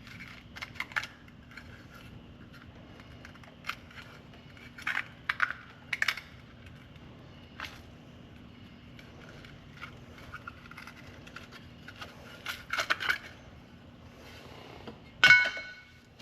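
Scattered metallic clinks and clicks of hand tools and loose parts while a dump truck's rear drum brake is taken apart, with a loud ringing metal clank near the end, over a faint steady hum.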